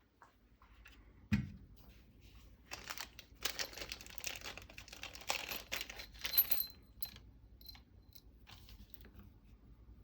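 A plastic parts bag being torn open and crinkled, with small metal parts clinking inside it, for about four seconds after a single knock about a second in.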